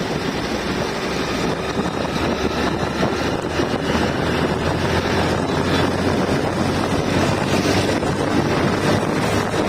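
A vehicle engine running steadily with a constant low hum, and wind rushing over the microphone.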